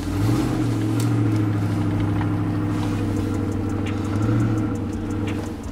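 Vehicle engine running at a steady pitch, with road noise, heard from inside the cabin while driving; the engine note swells briefly about four seconds in.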